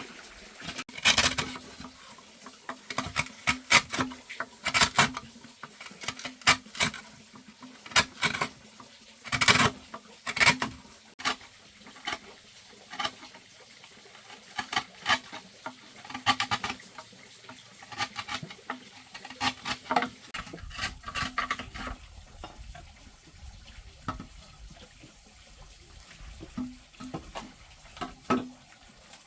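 Irregular clatter of light knocks and clicks, like objects being handled and set down, busy for about twenty seconds and sparser after that.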